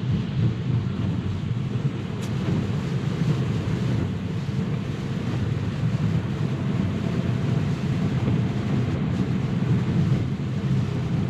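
Steady rumble of tyre and road noise from a Tesla driving on wet pavement in the rain, heard inside the cabin.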